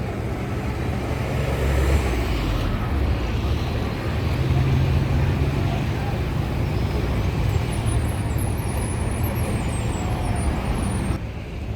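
Diesel engines of fishing boats running steadily, a low engine drone under a broad noise of working boats, as boats manoeuvre in and out of a crowded landing pier. Faint high chirping comes and goes in the second half.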